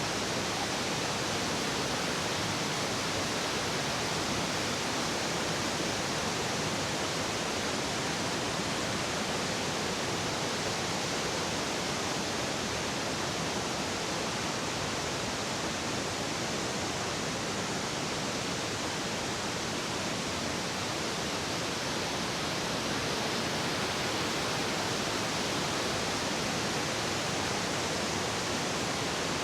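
Steady rushing of a large waterfall: an even wash of water noise that does not change, with no motor tone in it.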